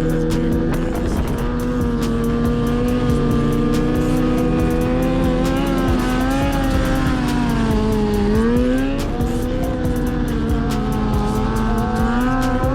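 Sportbike engine running at a steady high rev, its pitch dropping briefly about eight seconds in as the throttle eases and then climbing back.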